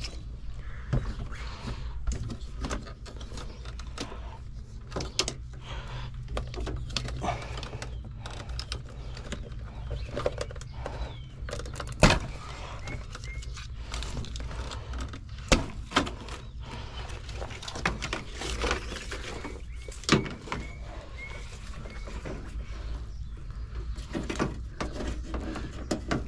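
Hands working a truck's wiring harness: scattered clicks, knocks and rustling as plastic connectors and taped wires are pulled free, with a few sharp knocks about 12, 15 and 20 seconds in. A steady low hum runs underneath.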